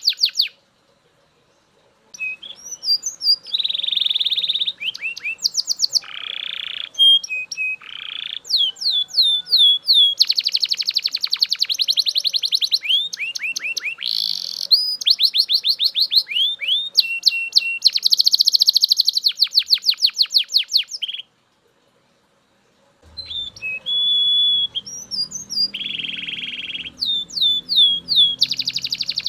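Belgian canary singing a long song of fast rolling trills and held whistled notes, broken by two short pauses.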